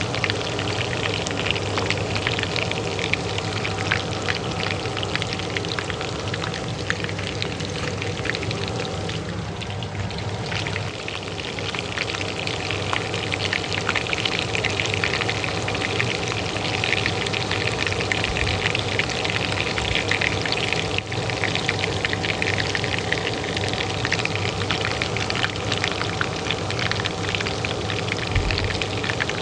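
Hot oil frying, a dense continuous crackle and spatter that thins briefly about ten seconds in. Under it runs the steady hum of a kitchen range hood fan.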